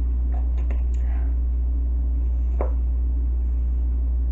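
Steady low machine hum, with a few faint clicks and one short squeak a little past halfway.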